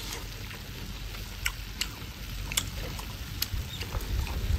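Close-up mukbang eating sounds: a man chewing a mouthful of stir-fried tuna and octopus, with a few sharp, wet mouth clicks spread through the chewing.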